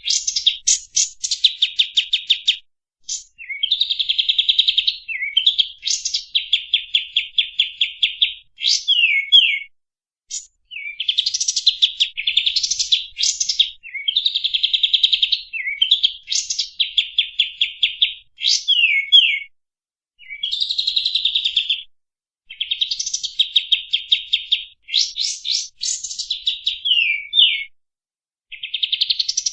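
Songbird singing: loud phrases of rapid, harsh stuttering notes, each a second or two long, repeated with short pauses. Several phrases end in quick downslurred notes.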